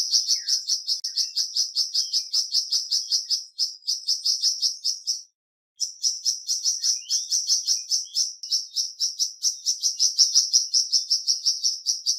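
Burung flamboyan song: a fast, even run of short high chirps, about seven a second. It breaks off for about half a second a little over five seconds in, then carries on.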